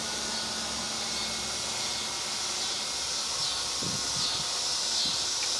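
WL Toys V912 fixed-pitch RC helicopter hovering: a faint steady motor whine and rotor hum under an even hiss.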